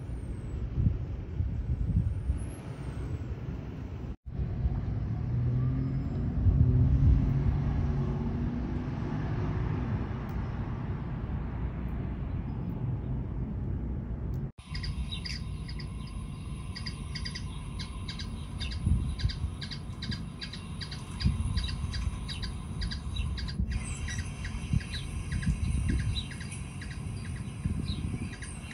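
Low traffic rumble, swelling as a vehicle passes. Then, after an abrupt cut about halfway through, many small birds chirping rapidly over a steady high whine and the same low background rumble.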